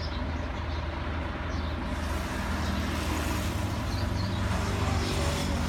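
A large vehicle's engine running steadily with a low hum, the surrounding noise growing louder from about two seconds in.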